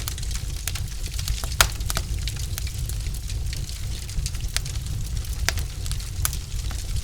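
Wood fire burning in a fireplace: logs crackling with irregular sharp pops, the loudest about one and a half seconds in, over a steady low rumble.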